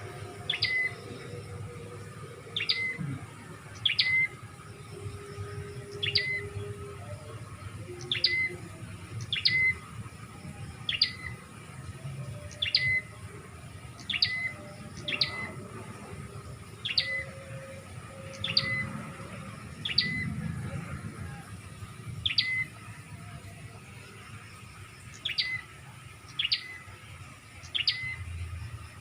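Prenjak (prinia) call, used as a lure call and repeated about eighteen times at uneven intervals of one to two seconds. Each call is a quick high, falling note that ends in a short lower note.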